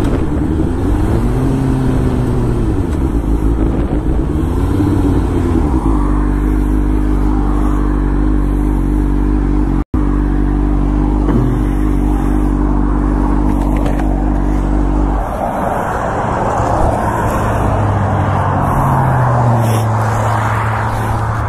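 Motorcycle engine running under way. Its pitch rises and falls with the throttle over the first few seconds, holds steady for about ten seconds, then settles lower near the end. The sound cuts out for an instant about ten seconds in.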